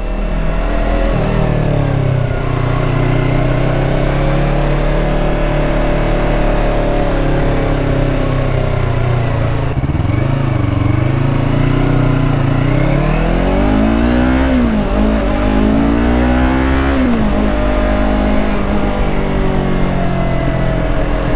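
Yamaha R3 motorcycle's parallel-twin engine running while riding, the revs dipping and then rising and falling a few times past the middle as the rider works the throttle through the gears.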